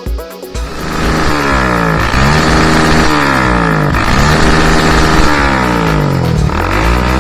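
Motocross dirt bike engine running hard at high revs, its pitch climbing and dropping about three times as it accelerates.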